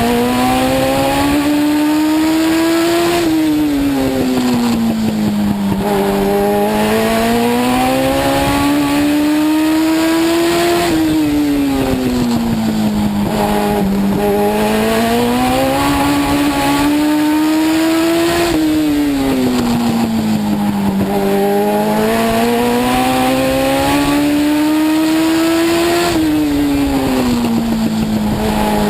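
A Legend car's Yamaha four-cylinder motorcycle engine, heard from inside the car as it laps a short oval. The engine note climbs for several seconds on each straight, then falls off as the driver lifts for the turn, four times, about every seven to eight seconds.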